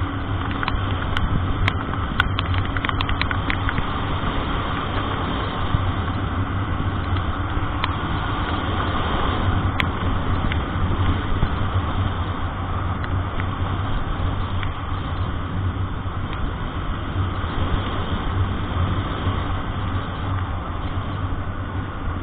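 Steady engine drone and road noise of a vehicle driving in the rain, heard from inside the cab. There are a few short clicks or knocks in the first few seconds.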